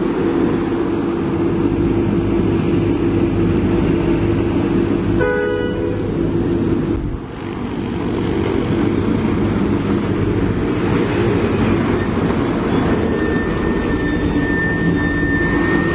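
Heavy diesel engine running steadily, with one short horn toot about five seconds in.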